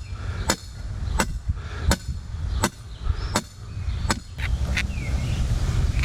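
Hammer blows while setting concrete forms: six evenly spaced, ringing strikes, about one every 0.7 seconds, that stop about four seconds in. A steady low hum comes in after them.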